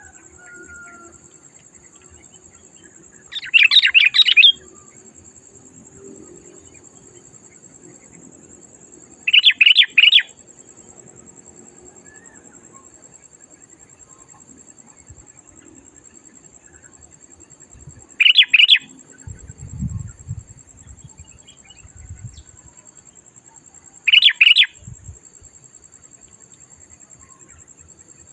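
Sooty-headed bulbul (kutilang) singing four short, bubbly phrases, each about a second long and several seconds apart. A few low thumps come between the third and fourth phrases.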